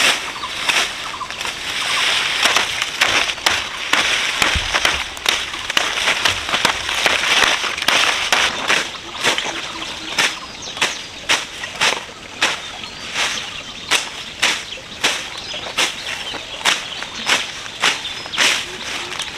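Repeated swishing strokes, about two a second, with denser rustling between about two and eight seconds in.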